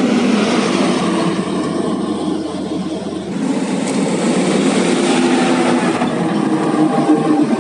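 Heavy coal-hauling truck's diesel engine running steadily, with small shifts in its pitch.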